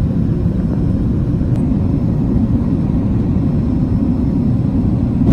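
Steady low rumble of an aircraft in flight.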